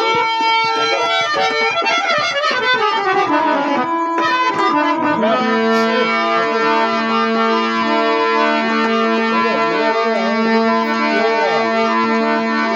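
Instrumental music played on a reedy keyboard instrument. A run of notes falls about two seconds in, then a melody moves over long held chords.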